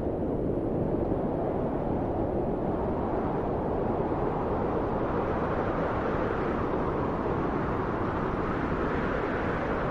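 Steady wind, a low, even rushing that swells and eases slightly.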